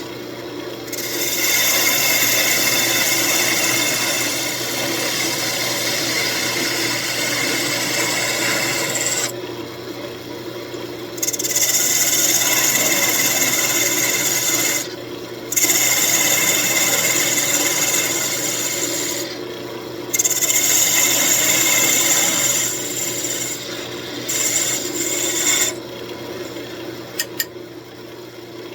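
Wood lathe running with a steady hum while a turning tool cuts the spinning walnut, the cutting hiss coming in several long passes of a few seconds each with short breaks where the tool comes off the wood. It is quieter near the end, with a couple of clicks.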